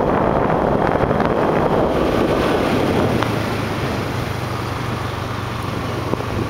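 Wind rushing over the microphone of a moving motorbike, with the engine's low steady hum underneath. The rush eases a little past the middle.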